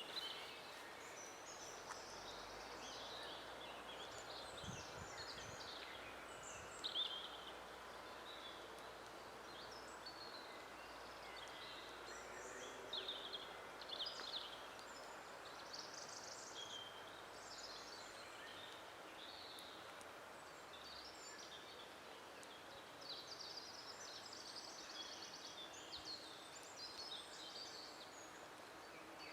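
Several forest songbirds singing, with overlapping short chirps, whistles and rapid trills from different birds, over a steady faint background hiss.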